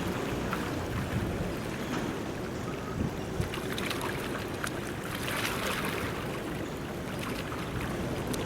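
Steady low rumble and water wash of a large ship under way, with wind noise on the microphone and a few faint clicks.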